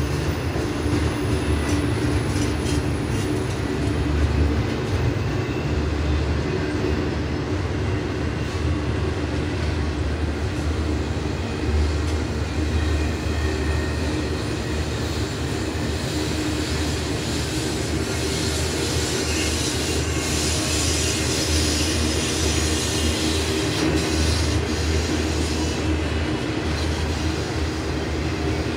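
Freight cars of a BNSF intermodal train rolling past: a steady rumble of steel wheels on rail, with a brighter high hiss for several seconds in the second half.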